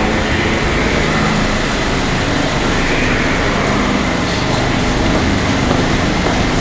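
New York City subway L train running through the station, a loud steady rumble with a faint motor whine.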